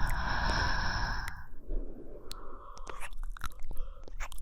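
A woman breathing close to the microphone: one long, airy breath for about the first second and a half, then softer breaths, with many small wet mouth clicks throughout.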